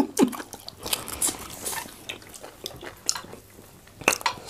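Close-up eating sounds of people eating fufu and goat meat by hand: scattered wet smacks and small clicks of chewing, with a sharper pair of clicks about four seconds in.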